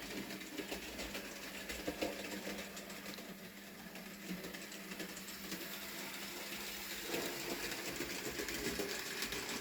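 Bachmann Peter Sam model locomotive running along the track with its small electric motor whirring and fast clicking from the wheels and rolling stock on the rails.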